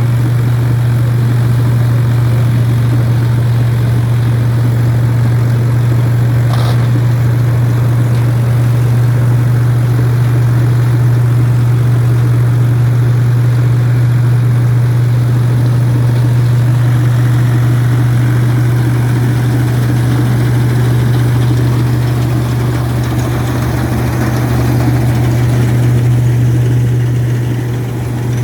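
Ford 3610 tractor's three-cylinder diesel engine running at a steady speed with a strong, even low hum. There is a brief click about seven seconds in.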